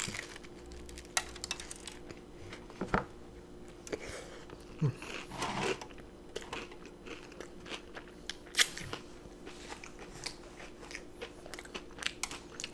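Close-mic chewing of a cheese-dipped battered onion ring: bites and crisp crunches with wet mouth clicks, coming irregularly, with louder crunches about three, six and eight and a half seconds in.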